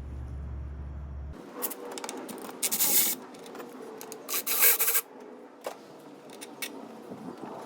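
Socket ratchet wrench ratcheting in two short rasping bursts while the intake snorkel's 10 mm screws are loosened, with handling scrapes and rubbing between them.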